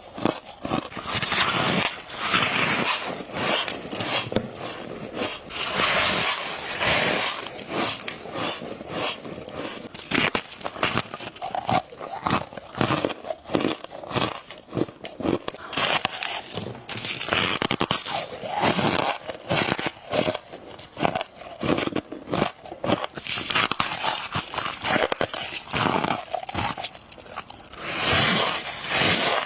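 Close-miked biting and chewing of flaky frost: dense crisp crunches that come in clusters of bites, with brief pauses between them.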